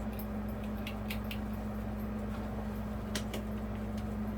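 Encon Casanova ceiling fan motor running, a steady electrical hum with a few faint ticks on top.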